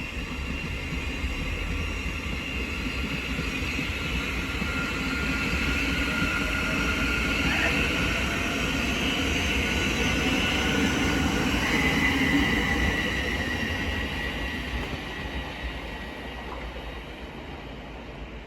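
Thameslink Class 700 electric multiple unit pulling away, its traction motors giving off a whine of several steady tones, one of which steps up in pitch partway through. It grows louder, peaks about two-thirds of the way in, then fades as the train leaves.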